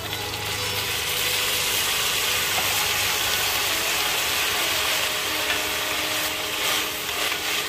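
Bottle gourd cubes dropped into hot oil with shallots and curry leaves in an enamelled cast-iron pot, setting off a steady sizzle. Near the end a spatula stirs the vegetables through the pan.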